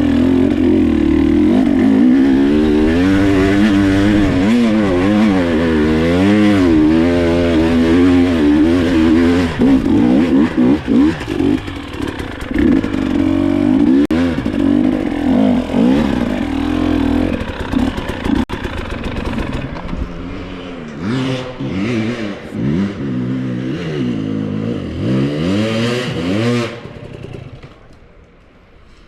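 Dirt bike engine revving up and down under load as it climbs a hill, with knocks and clatter from about ten seconds in. The engine dies away near the end.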